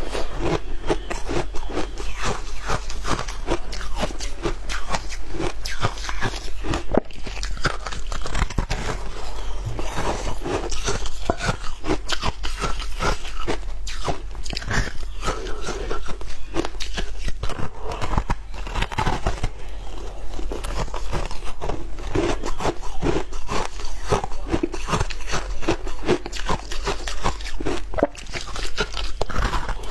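Shaved ice being bitten and chewed close to the microphone: a dense, continuous run of crisp crunches.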